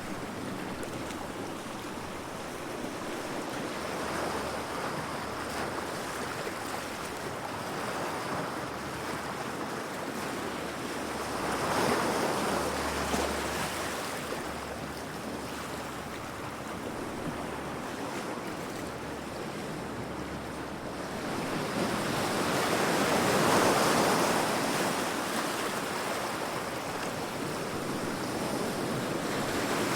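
Heavy sea waves breaking against rocks: a continuous wash of surf that swells louder twice as bigger waves crash, a little before the middle and again later on.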